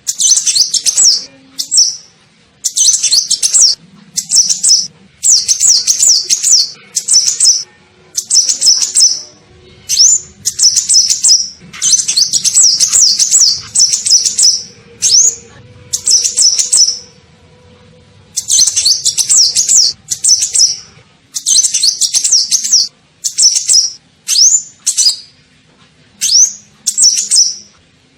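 Sunbird song of the kind used as a lure call in Indonesian bird-keeping: bursts of rapid, high twittering chirps, each lasting about a second, with short gaps between them. A few single rising notes fall between the bursts.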